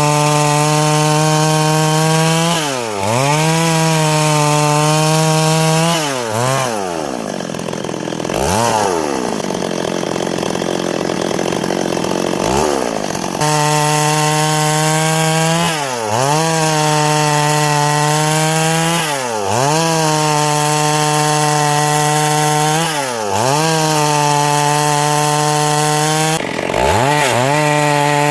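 Chainsaw cutting lengthwise through a log into boards. It runs at high revs, and the engine note dips and climbs back every few seconds as the throttle is eased and reopened. For several seconds in the middle it falls back to a lower, weaker note before going back to full revs.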